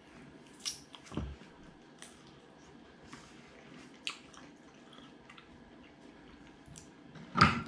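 A person chewing a mouthful of steak pie with pastry: soft, wet, squishy mouth clicks scattered through, and one louder mouth noise near the end.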